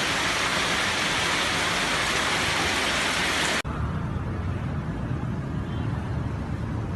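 Steady hiss of rushing water that cuts off abruptly about three and a half seconds in, followed by a duller, low rumbling noise.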